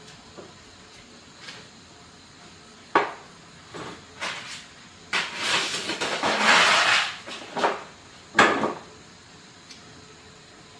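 A few sharp knocks and clatters of hard objects being handled, with a louder stretch of about two seconds of scraping or rustling in the middle.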